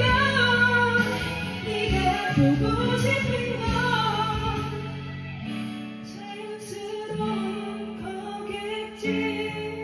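A woman singing a Korean song over a karaoke backing track; the low bass of the backing drops out about halfway through, leaving the voice over lighter accompaniment.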